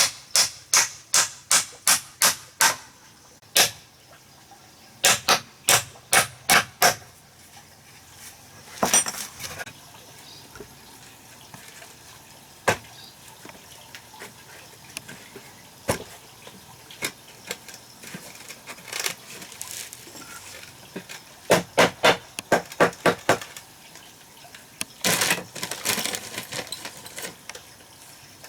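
Hammering: quick runs of sharp blows, about three a second, in four bursts, with single knocks and light clatter between them.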